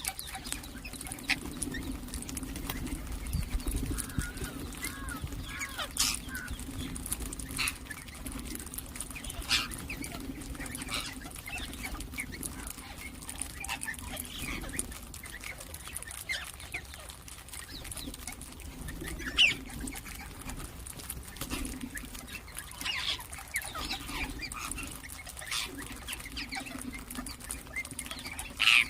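Ringneck parakeets chirping, with short sharp calls scattered throughout. The strongest calls come about 6, 9 and 19 seconds in and at the very end, over a low hum in the background.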